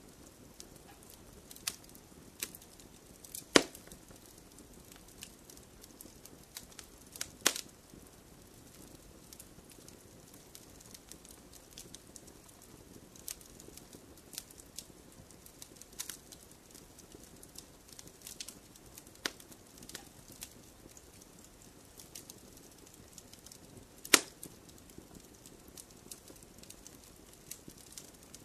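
Wood fire crackling in a fireplace: a soft hiss of burning with scattered small crackles and three loud, sharp pops.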